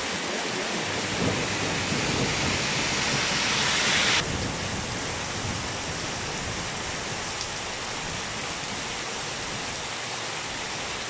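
Heavy rain pouring down onto a street and pavement, a steady hiss. It is louder for about the first four seconds, then drops suddenly to a softer, even downpour.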